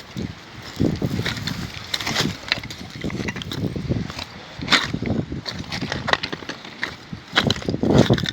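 Footsteps crunching irregularly over twigs and leaves on a trail, with low thumps of wind buffeting the microphone.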